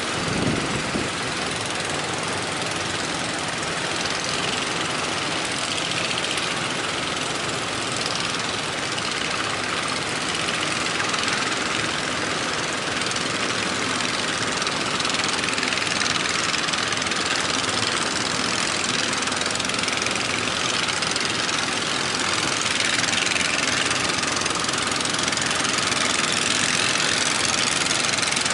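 A fishing boat's engine running steadily with a knocking beat, under a continuous rush of noise.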